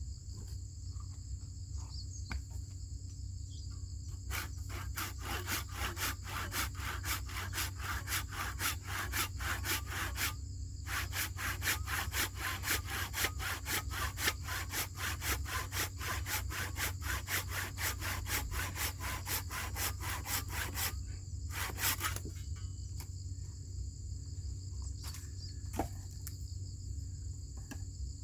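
Hand saw cutting through wood in quick, even strokes, about four a second, with a brief pause partway and stopping about three-quarters of the way through. Insects chirr steadily throughout.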